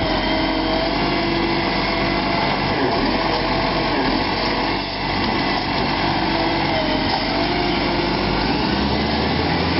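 Iveco Acco garbage truck running: a steady mechanical drone with whining tones that waver slightly in pitch.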